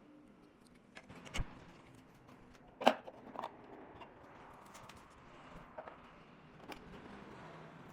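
A few scattered, sharp clicks and knocks of objects being handled, at irregular intervals over a low background hiss, the loudest about three seconds in.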